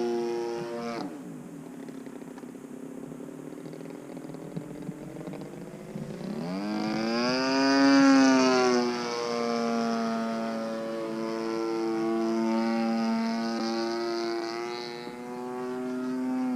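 Single-cylinder two-stroke DLE 35RA gas engine of an RC aerobatic plane in flight, freshly rebuilt top end. The throttle is chopped about a second in and the engine runs low and quieter, then opens up around six seconds, rising to a loud peak near eight seconds as the plane passes, and holds steady at higher power until it is pulled back again at the end.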